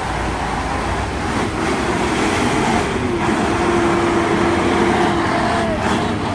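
Truck engine running under load amid a steady rush of noise, with a steady whine from about the middle.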